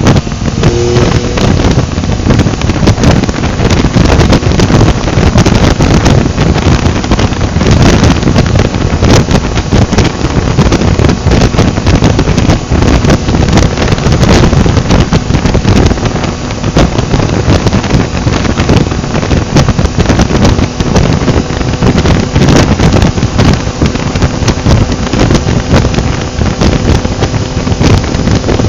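Heavy wind buffeting on the microphone of a motorcycle at road speed, with the engine of a Yamaha XSR900 three-cylinder running steadily underneath.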